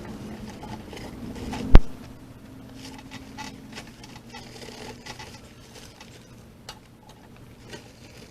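Concrete being mixed for footings: a low steady hum ends with one loud knock about two seconds in, followed by scattered light clicks and scrapes.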